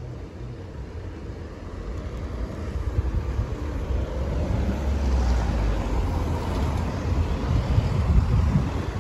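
A heavy vehicle passing close by: a low rumble that builds from about two seconds in and stays loud through the second half.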